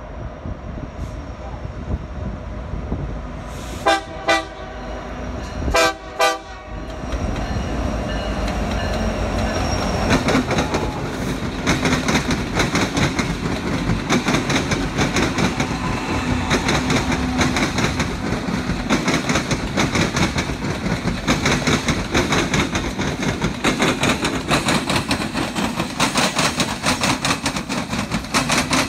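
A freight train of Norfolk Southern, Union Pacific and BNSF diesel locomotives sounds a few short horn blasts about four to six seconds in. Its engines then rumble as the locomotives pass close by, and the wheels clack rhythmically over the track.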